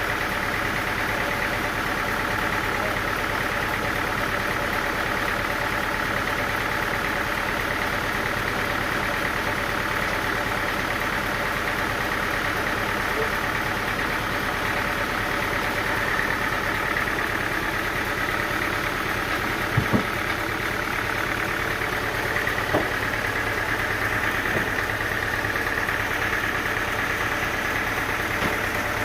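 An engine running steadily at an even speed, with a few short sharp knocks about two-thirds of the way through.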